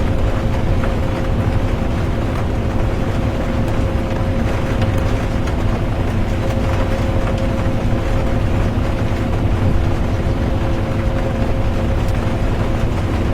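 Steady low rumble of a bus driving, heard from inside the cabin, with a steady engine and drivetrain hum running through it and calm rain mixed in.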